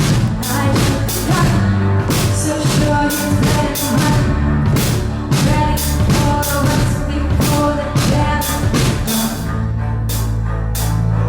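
A live band playing a pop-rock song, with a steady drum beat under sustained bass and melody notes.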